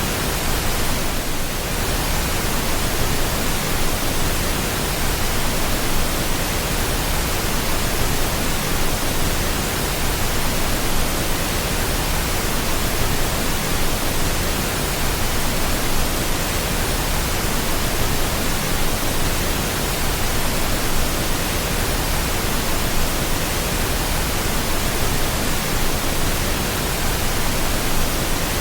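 Steady pink noise: an even, unbroken hiss across the whole range of pitch, with no tones or events in it.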